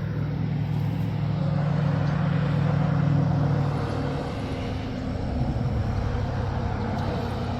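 A vehicle engine running steadily, its pitch dropping a little about four seconds in.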